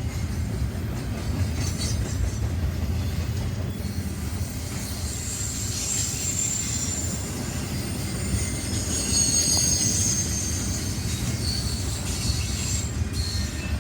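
Train cars rolling past with a steady low rumble, and a high-pitched wheel squeal for several seconds in the middle.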